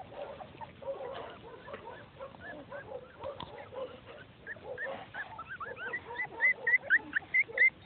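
A litter of three-week-old Welsh terrier puppies whimpering: faint at first, then a quick run of short, high squeaks, about three a second, growing louder toward the end.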